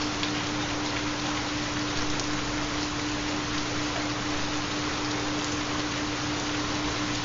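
Steady rain sound track, an even hiss of rainfall with faint drop ticks. Under it runs a steady low tone, the carrier of a theta binaural beat.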